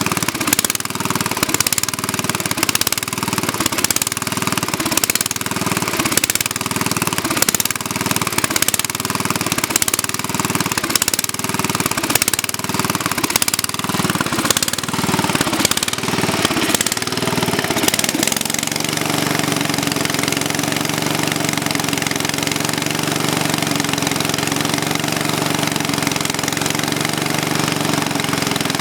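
Sears Suburban 10 garden tractor's single-cylinder cast-iron Tecumseh engine running after a cold start, pulsing unevenly about three times every two seconds. About eighteen seconds in it settles into a steady, even idle.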